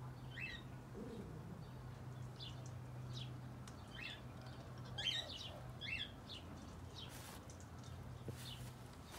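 Small birds chirping: short high chirps scattered throughout, several in quick succession about five seconds in, over a faint steady low hum.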